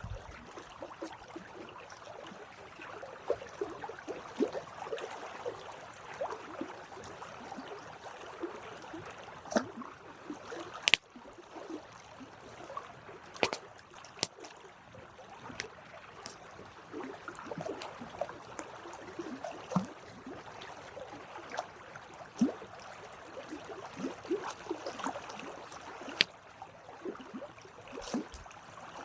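Campfire burning: wood crackling with irregular sharp pops over a soft steady hiss, with a few pops much louder than the rest.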